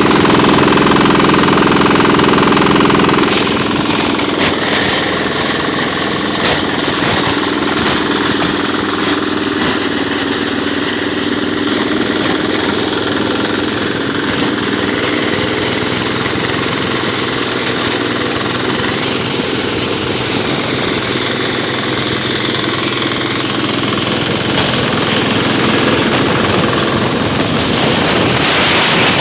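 Diesel engine driving a chaff cutter, running steadily with a rapid knocking beat. It is a little louder for the first few seconds and again near the end.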